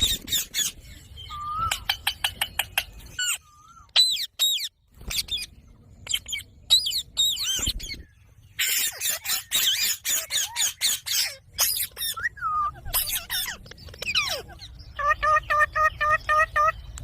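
Ringneck parrot calling: a string of short chirps and gliding whistles, a stretch of harsh screeching calls midway, and a quick run of about ten repeated notes near the end.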